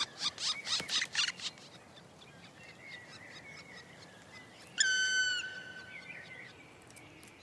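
Black woodpeckers calling: a quick run of repeated calls for the first second and a half, then one long whistled call about five seconds in that slides down slightly at its end.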